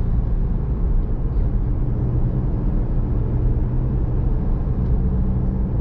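Truck driving at highway speed, heard from inside the cab: a steady low engine drone with road and tyre noise.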